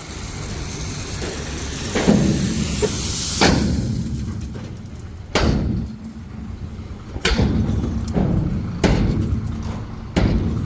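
A truck engine runs steadily under a series of heavy bangs, six in all, about every one and a half to two seconds. A hiss builds over the first few seconds.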